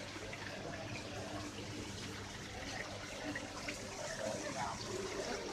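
Steady trickle of running water, with a low steady hum beneath it.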